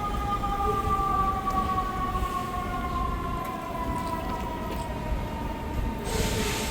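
Emergency-vehicle siren sounding one long tone that slowly falls in pitch, over steady street traffic rumble. A short burst of hiss comes near the end.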